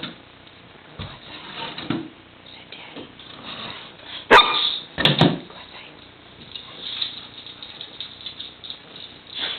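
A dog barking: two loud barks about four and five seconds in.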